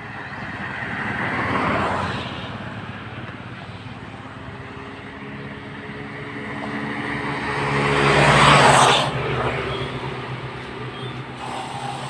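Road traffic passing close by: one vehicle swishes past about two seconds in, then a louder one with a clear engine note builds up and passes about eight seconds in.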